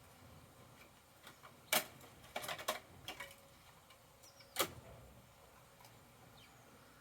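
Sharp clicks and knocks from a Bruder toy garbage truck being worked by hand: one loud click a little under two seconds in, a quick cluster after it, and another loud one past the middle.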